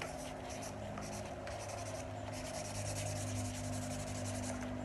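Marker drawing stripes onto a cardboard toilet paper tube: a run of short scratchy strokes.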